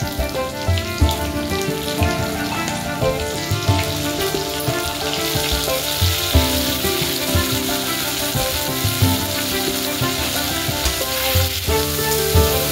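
Whole small onions and garlic cloves sizzling as they fry in oil in a steel kadhai, the sizzle growing stronger about halfway through, when ground masala paste goes in. Background music plays throughout.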